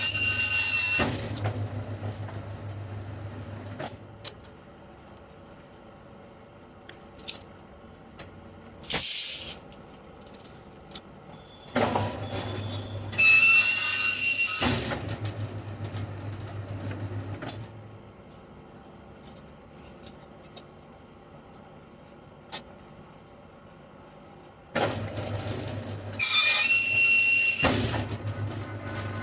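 Electric arc welding from a welding machine in three spells of a few seconds each, a hiss and crackle over a low electrical hum, with a short louder hiss in between.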